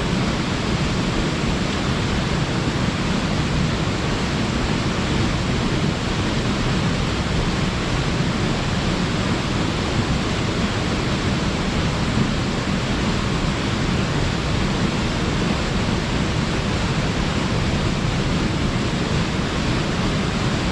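Waterfall pouring steadily, a loud, even rush of water with a deep low rumble, the flow swollen after a typhoon.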